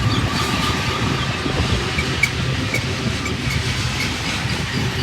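Freight cars of a long train rolling past on the main line: a steady rumble of steel wheels on rail with scattered clicks and brief high squeaks.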